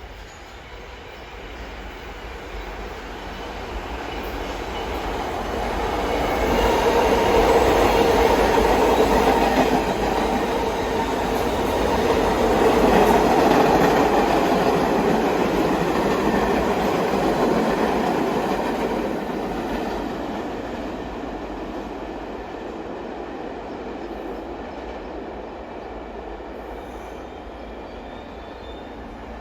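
New York City subway train running past on the BMT Brighton Line, wheels on rail. It grows louder over the first several seconds, stays loud for about ten seconds, then fades away.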